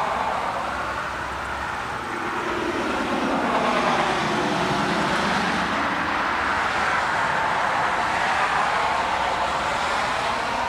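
Steady rushing road-traffic noise, with vehicles passing and the rush swelling and fading over a few seconds.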